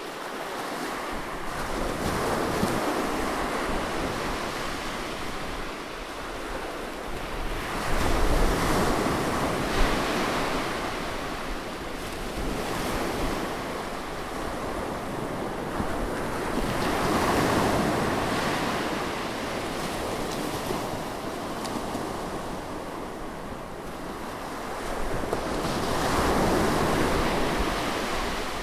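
Sea waves breaking close by on a shore, the surf swelling and washing back in slow surges every several seconds, with the strongest break about eight seconds in.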